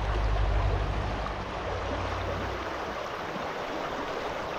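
Off-road side-by-side (UTV) driving off: a low engine rumble that drops away about two and a half seconds in, under a steady rushing noise.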